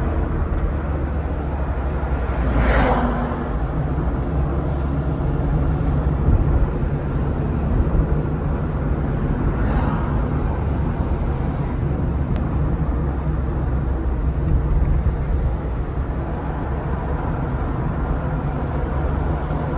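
Street traffic ambience: a steady low rumble, with vehicles swelling past about 3 s and 10 s in.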